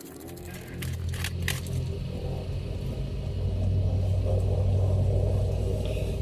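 An engine running steadily, from a vehicle or machine, growing louder over the first few seconds, with a few sharp clicks about a second in.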